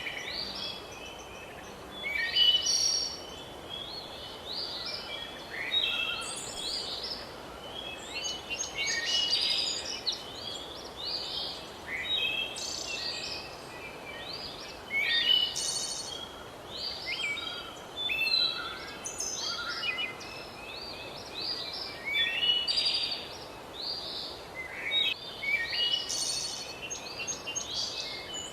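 Many birds singing at once, a dense chorus of overlapping high chirps and short trills over a steady background hiss.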